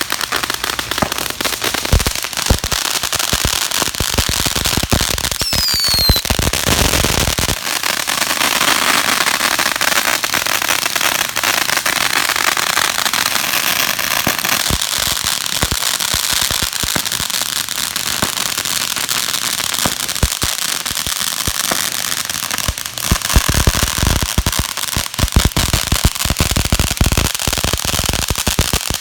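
Firecrackers going off in a long, dense run of rapid crackling pops, with a brief falling whistle about six seconds in and heavier, more spaced pops near the end.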